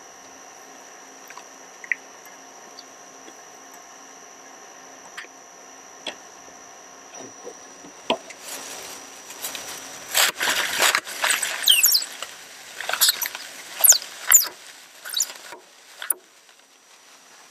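Shredder motor running with a steady hum, then from about eight seconds in, the plastic toy truck cracking, crunching and squeaking in the blades, with many sharp cracks and high squeals.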